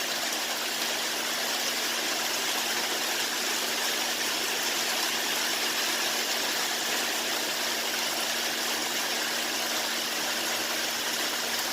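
Steady rain falling: an even, unbroken hiss, with a faint steady hum underneath.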